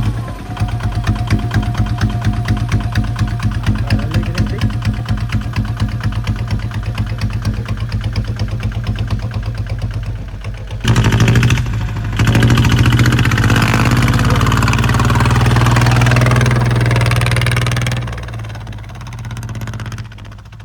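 Kubota ZT155 single-cylinder diesel engine running with a steady pulsing beat. About eleven seconds in it gets louder and fuller, with a short dip soon after, then it eases off again near the end.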